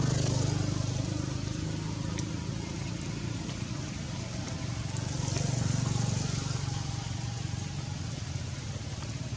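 Steady rain falling, with the sound of traffic swelling twice as vehicles pass, once right at the start and again about five seconds in.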